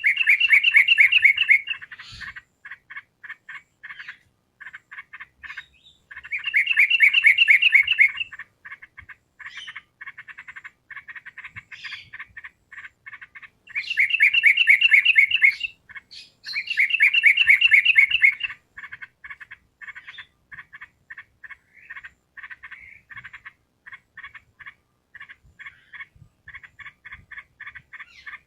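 Yellow-vented bulbul (trucukan) singing: four loud phrases of rapidly repeated notes, each about two seconds long, over a steady, fast pulsed chatter of quieter calls.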